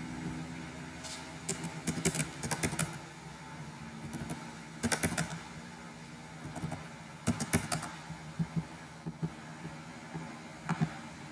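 Computer keyboard typing in several short bursts of keystrokes with pauses between, over a low steady hum.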